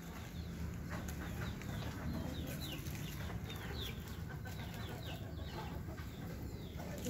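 Birds chirping: many short, quick, falling chirps repeated throughout, over a steady low rumble.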